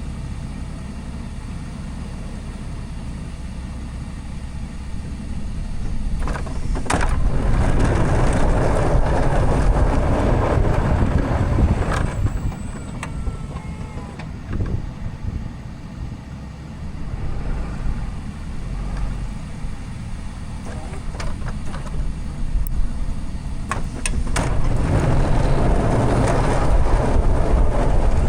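Plow truck's diesel engine running steadily, then working harder twice: once from about six seconds in and again near the end.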